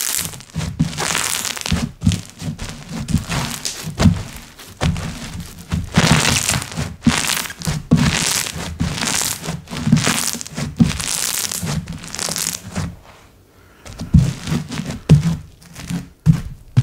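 Slime being squeezed, pressed and folded by hand: a run of irregular squishes, each with a soft thud under it. It goes briefly quiet about thirteen seconds in, then starts again.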